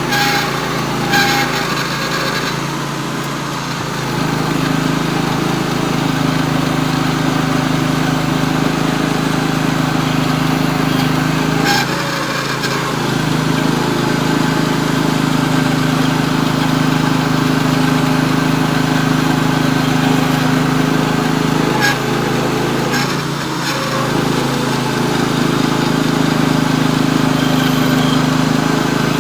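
Norwood HD36V2 portable band sawmill running steadily under load, its engine driving the band blade through a full-width cut in a poplar log. The level dips briefly about 3, 12 and 23 seconds in.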